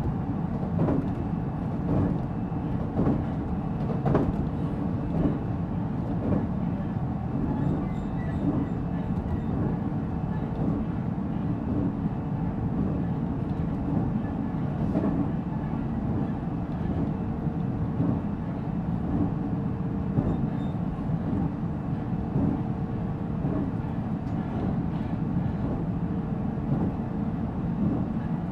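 Interior running sound of a JR Central 313 series 0-subseries electric multiple unit, heard from the motor car MoHa 313-7 while cruising between stations: a steady rolling rumble with a constant hum. In the first several seconds it carries a series of knocks about a second apart, typical of wheels passing over rail joints.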